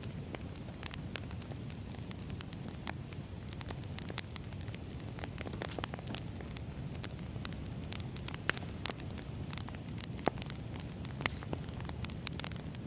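Firewood burning and crackling: a steady low rumble with frequent sharp pops, a few of them louder in the second half.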